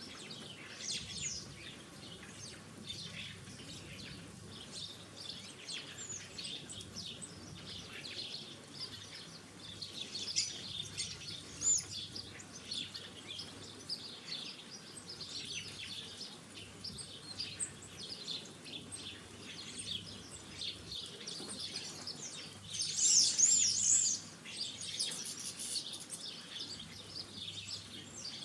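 Small garden songbirds chirping and twittering, many short, high, overlapping calls, with a louder flurry of calls a little over twenty seconds in.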